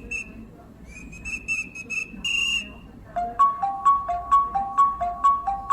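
Pea whistle blown in trilling blasts: a long one about a second in and a short, sharper one just after. Then comes a two-note chime-like pattern alternating higher and lower notes, about four notes a second.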